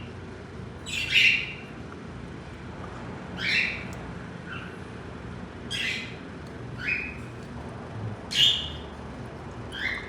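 A bird calling: short, harsh calls that sweep upward in pitch, repeated about every one to two seconds, some seven times.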